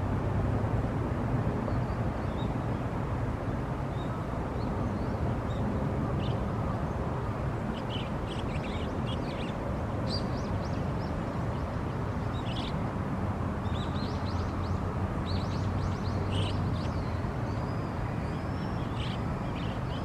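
Small birds chirping in short, high calls, scattered at first and thicker from about a third of the way in, over a steady low outdoor rumble.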